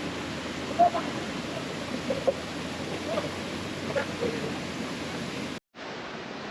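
Steady rushing of the Mailung waterfall, with faint voices now and then. The sound drops out abruptly for a moment near the end, then comes back a little quieter.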